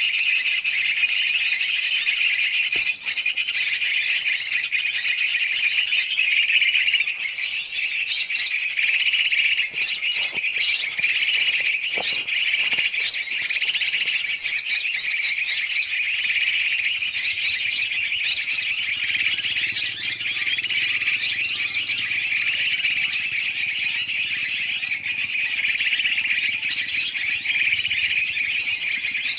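Dense, unbroken chatter of many birds chirping and calling at once: a bird-lure recording that mixes the noisy calls of large and small birds to draw in other birds.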